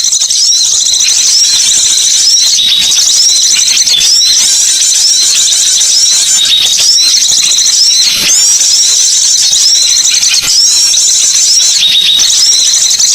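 Recorded songbird chirping used as a bird lure: high-pitched, rapid chirps repeated in quick phrases without a break.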